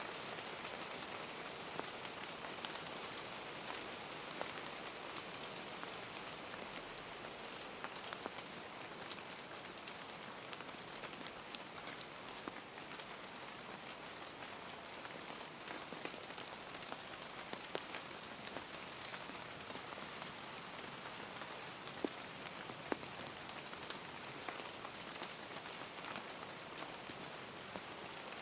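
Steady rain falling, an even hiss with many small, sharp drop taps scattered through it.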